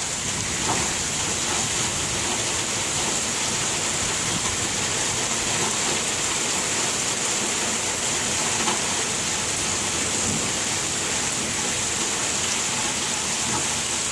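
Steady rain falling during a thunderstorm, an even hiss with no clear thunderclap.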